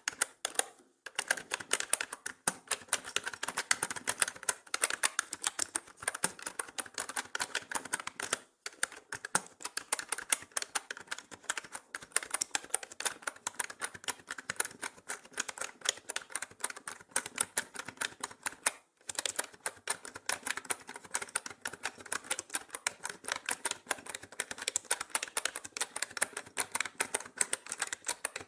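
Mechanical keyboard being typed on continuously, a fast stream of key clicks and clacks, with brief pauses about a second in, around eight seconds in and near the middle.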